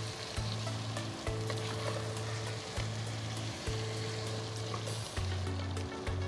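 Chicken pieces sizzling as they fry in hot oil with spices in a pot, with a wooden spatula stirring and scraping against the pot in small clicks.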